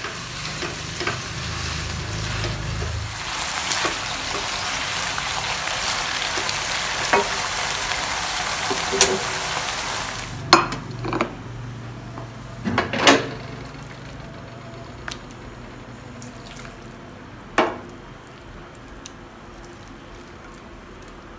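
Vegetables and meatballs sizzling in a granite non-stick wok: a steady frying hiss that builds, then drops off abruptly about halfway. After that come a handful of sharp knocks and scrapes of a spatula against the pan.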